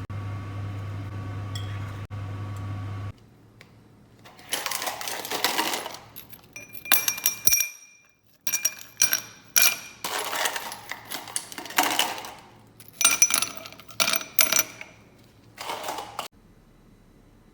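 A steady electric hum cuts off about three seconds in. Then come a dozen or so short bursts of clattering and rustling with bright metallic clinks, as kitchen utensils and dishes are handled.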